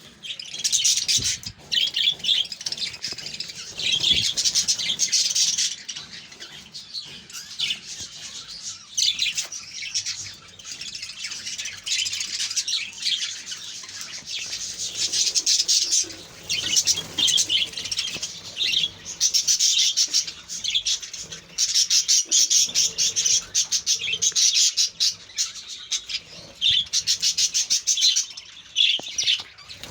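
Many budgerigars chattering and chirping together in a colony, with a dense mix of high chirps and warbles that swells and fades in bursts.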